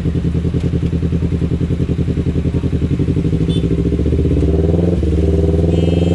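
Kawasaki Ninja 250 FI parallel-twin engine through an aftermarket R9 H2 exhaust, running at steady low revs with an even pulsing note. About four seconds in, the revs rise and then hold at a higher pitch.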